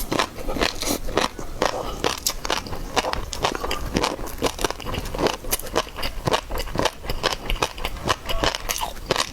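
Close-miked eating of seafood: a person biting and chewing, with dense, irregular crisp crackles and crunches.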